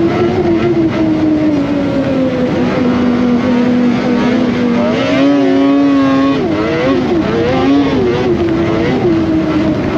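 Polaris Indy Cross Country 600 snowmobile's two-stroke engine running while riding. Its note sags over the first few seconds, wavers up and down around the middle as the throttle changes, and climbs again near the end.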